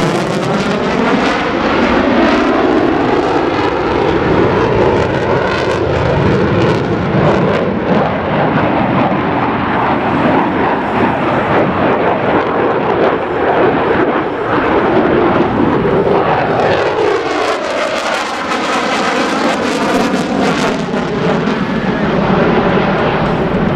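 F-16 Fighting Falcon jet engine, loud and continuous as the jet flies its display, with sweeping shifts in tone near the start and again about two-thirds of the way through as it passes.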